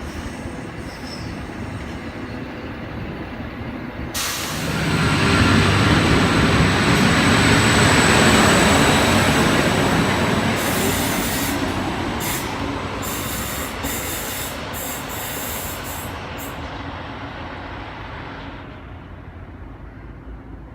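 Endeavour diesel railcar set pulling into the platform: its engine and wheel noise swell sharply about four seconds in, peak a few seconds later, then fade slowly as it slows. A thin high whine rides over it for a few seconds, and a hiss cuts in and out near the middle.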